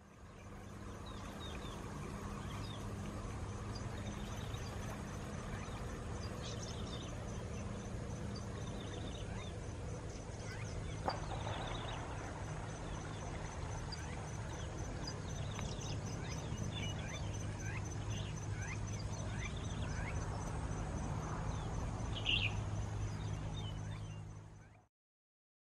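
Birds chirping and calling over a steady low hum, with a high, fast, even ticking underneath; one sharp click about eleven seconds in.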